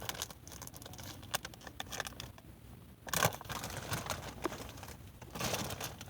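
Popcorn being handled: a bag rustling and crinkling, with scattered small crackles and two louder rustles about three seconds in and near the end.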